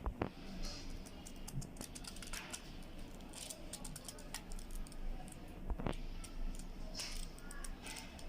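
Crisp paper banknotes being handled: a run of light, irregular clicks and short rustles, with two sharper snaps, one at the start and one about six seconds in.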